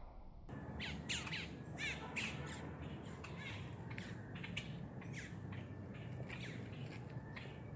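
A flock of birds calling outdoors: many short calls, each falling in pitch, overlapping in quick succession. They start abruptly about half a second in.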